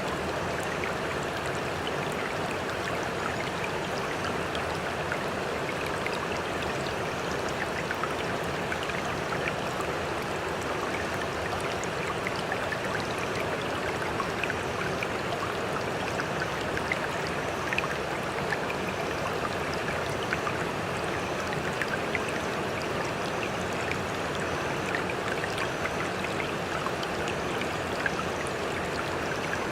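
Sea water lapping and splashing in a steady, even rush, flecked with many small drips and splashes.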